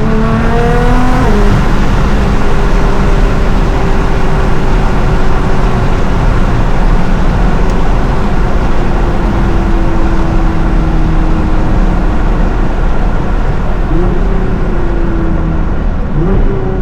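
Nissan GT-R R35's twin-turbo 3.8-litre V6 under way: revs climb, drop at an upshift about a second in, then hold steady and ease off slowly while cruising. Near the end the revs rise and fall again twice in short throttle pulls, over constant road rumble inside the car.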